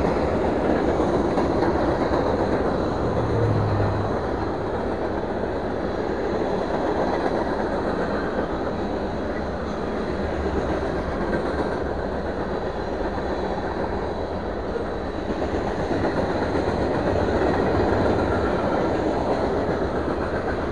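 A train passing on the railroad tracks: a steady, continuous noise of wheels and cars rolling on the rails.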